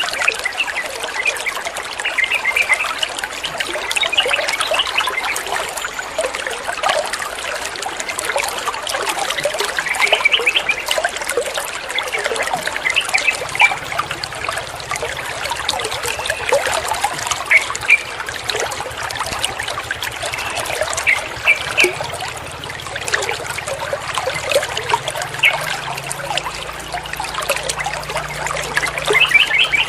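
Water trickling and splashing steadily, with short clusters of high chirping notes every few seconds.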